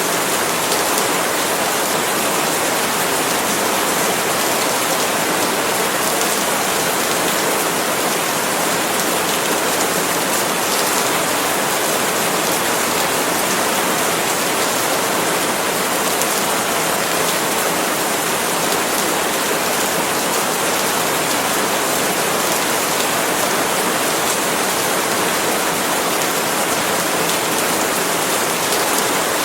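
Steady, heavy rain falling on leaves, a dense even patter.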